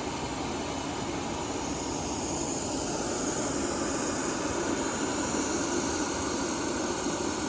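Steady rushing aircraft noise with no distinct beats or tones, growing slightly louder a few seconds in.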